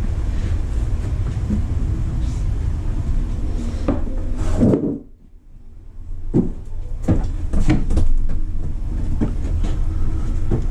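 A steady low rumble with scattered knocks and clicks. The rumble cuts out for about a second about five seconds in, then returns.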